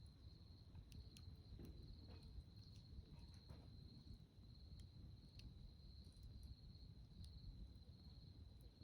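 Faint campfire crackle, scattered small pops and snaps from burning wood, over a steady high trill of insects.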